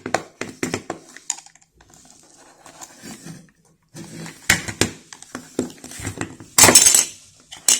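Small plastic clicks and scraping as a snap-on cover is pried off a plastic game controller, with a loud crackling snap about two-thirds of the way through as the cover comes free.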